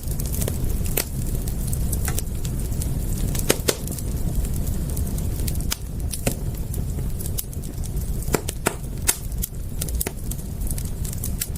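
Wood fire crackling, with irregular sharp pops of burning wood, a few of them louder, over a steady low rumble.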